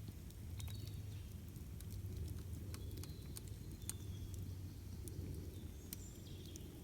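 Campfire burning: scattered sharp crackles and pops over a low steady rumble, with a few short high whistling notes.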